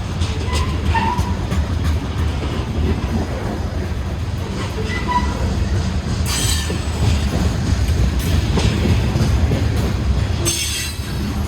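Freight train rolling past: a steady rumble of the cars on the rails, with brief high-pitched squeals from the wheels.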